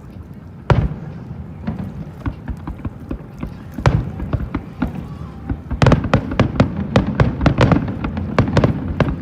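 Fireworks going off: a loud bang about a second in, another near four seconds, then from about six seconds a rapid run of many sharp pops and crackles.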